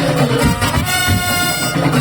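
Madurese tong-tong music played loud: a held, reedy melody line over pounding drums.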